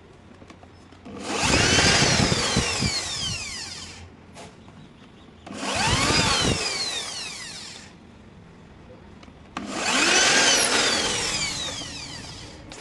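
Handheld power tool run in three short bursts, each starting suddenly and falling in pitch as it fades.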